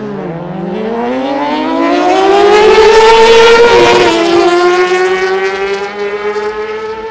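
Car engine accelerating hard on a drag-strip qualifier run. The pitch climbs steadily and drops at a gear change about four seconds in, then climbs again. It is loudest about three seconds in as the car passes, then fades.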